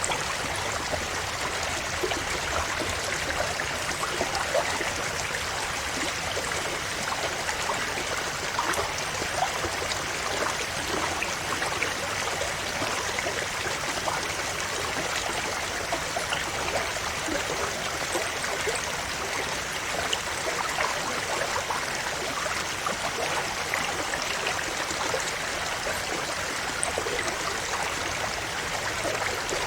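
A river or stream flowing steadily over rocks, with continuous rushing water and many small splashes and gurgles.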